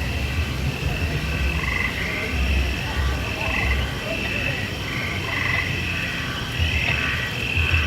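Frog-like croaking calls repeating in overlapping short chirps, over a steady low rumble.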